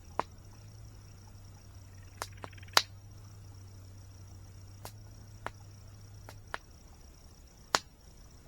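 Campfire wood crackling: scattered sharp pops and snaps, about nine of them, the loudest a little under three seconds in and near the end. Under them runs a steady, high, thin insect drone.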